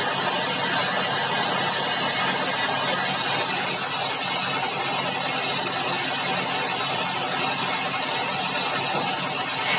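Sawmill band saw running through a log: a steady, loud hiss with a high whine that holds even throughout.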